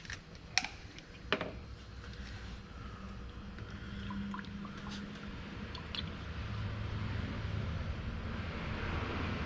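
Motor oil pouring from a plastic jug through a large funnel into the engine's oil filler, a steady pour that slowly grows louder, with a few sharp clicks of the jug being handled near the start.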